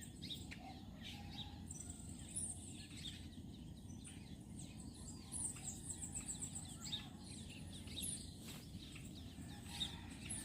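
Several small birds chirping and calling, with a quick trilled call around the middle, over a steady low background rumble.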